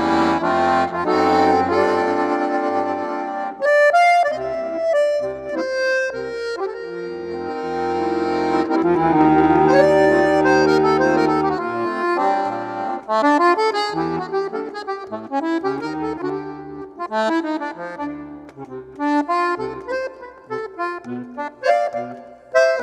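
Sanfona (piano accordion) playing: a melody over long held bass chords, then, about halfway through, quicker runs of short notes and clipped chords.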